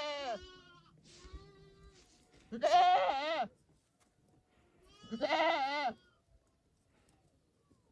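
Domestic goat bleating: two loud, wavering bleats about two and a half and five seconds in, each close to a second long, with the tail of an earlier bleat at the start and a fainter call between.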